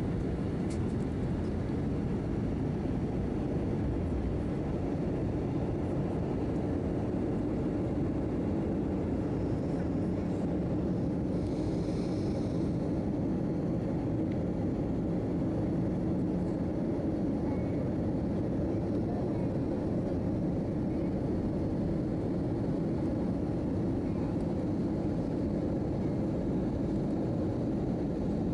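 Steady cabin noise inside an Airbus A319-111 in flight: the low drone of its CFM56 turbofan engines and rushing airflow, with a brief faint hiss near the middle.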